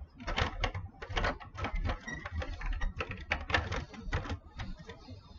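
Plastic building bricks clicking and clattering in quick, irregular handling, like pieces being picked up, set down and snapped together.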